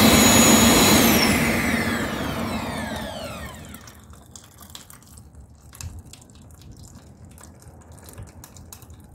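Air blower on a homemade waste-oil stove running with a loud roar, then switched off about a second in, its whine falling in pitch as it spins down over a couple of seconds. Afterwards faint irregular crackling and ticking.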